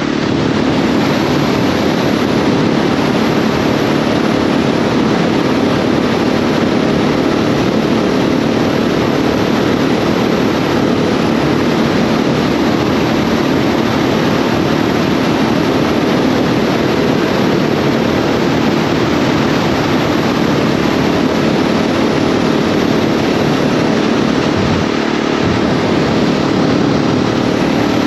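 KTM 690 SMC R supermoto's single-cylinder engine running under way at a steady speed, its pitch holding even, with a constant rush of noise over it.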